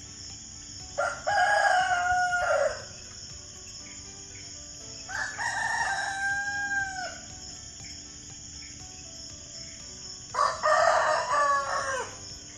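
A rooster crowing three times, each cock-a-doodle-doo lasting about two seconds, a few seconds apart.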